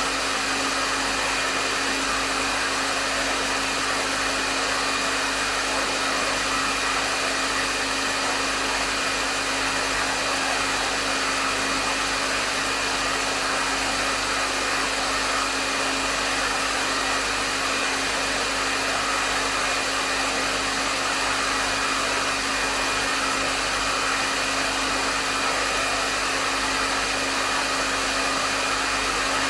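Hair dryer running steadily: an even rush of airflow with a steady motor hum and a faint high whine, unchanging throughout.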